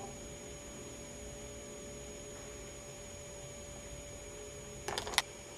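Steady low electrical hum with a faint high whine, no voices. About five seconds in there is a quick cluster of three or four sharp clicks.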